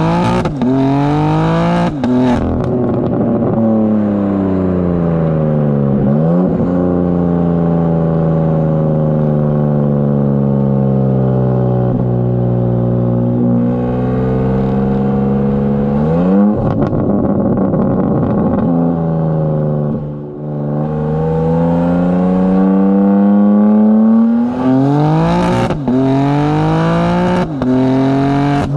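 BMW G82 M4 Competition's twin-turbo inline-six, breathing through high-flow cats and downpipes, accelerating and easing off through the gears: the pitch climbs and then drops at each quick gear change, falls away as the car slows, and a burst of revs about sixteen seconds in is followed by a few seconds of crackling. Near the end it pulls hard through several quick upshifts in a row.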